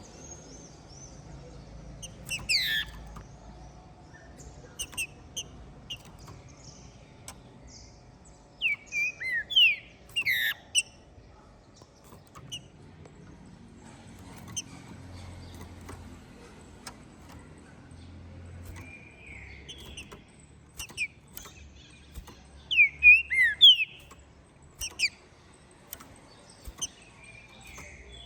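Green-winged saltator (trinca-ferro) singing in short, loud bursts of quick sweeping whistled notes, three main bursts with quieter notes between, and sharp clicks scattered throughout.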